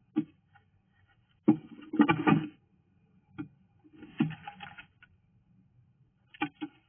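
A bird working nesting material inside a nest box, making irregular bursts of scratching, scuffling and knocking against the box, with the loudest flurry about two seconds in.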